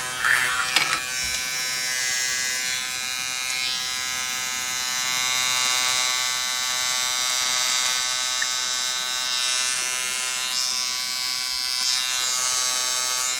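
TPOB Mini Skull single-head shaver's motor running with a steady, even buzz, with a few brief scratchy sounds in the first second.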